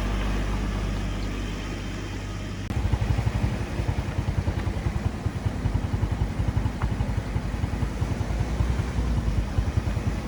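An engine or motor running: a steady low hum that changes abruptly, about two and a half seconds in, to a fast, uneven pulsing.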